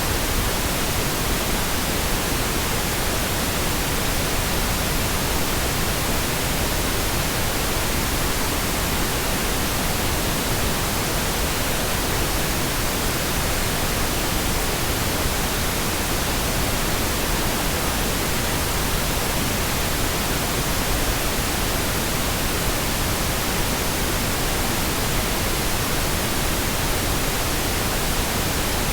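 Steady pink noise: a continuous, even hiss spread across the whole range, unchanging throughout.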